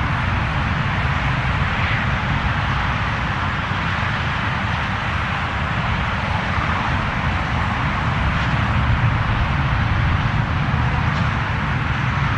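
Steady jet airliner engine noise: an even, loud rush with a deep rumble underneath, holding level without clear rises or falls.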